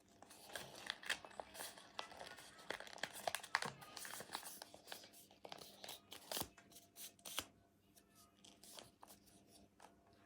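A sheet of paper being folded and creased by hand, crinkling and crackling irregularly. There are sharper crackles about three and a half and six and a half seconds in, and it gets sparser after the midpoint.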